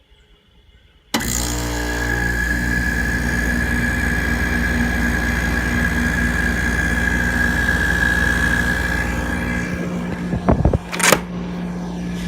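Hampton Bay 12,000 BTU window air conditioner starting up: about a second in it comes on suddenly with a loud hum and a steady high whine, which the owner calls a bad startup. Near the end the level drops, with a couple of sharp knocks, and a lower steady hum carries on.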